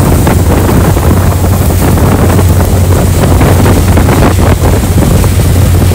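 Loud wind buffeting the microphone over the steady low hum of a passenger ferry's engine under way.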